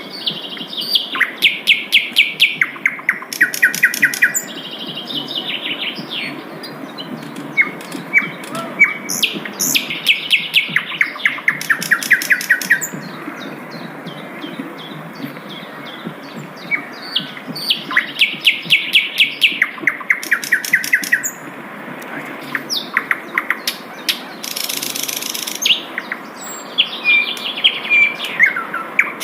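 Sikatan londo, a flycatcher, singing repeated phrases of rapid, evenly spaced high notes with short pauses between them, over a steady low background noise.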